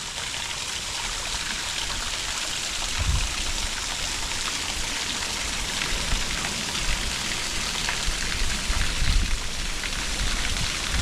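Stepback Brook's small waterfall: water rushing and splashing in a steady, even hiss, with a few brief low rumbles about three seconds in and again later.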